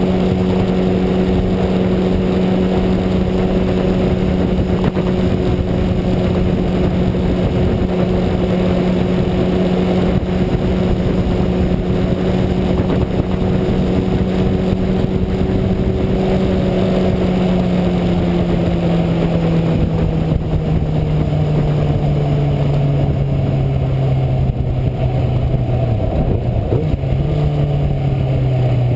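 Sportbike engine running at a steady cruise under heavy wind rush. About two-thirds of the way through, the engine note slowly falls as the bike rolls off. Near the end there is a short step up in pitch at a downshift, and then the note keeps falling.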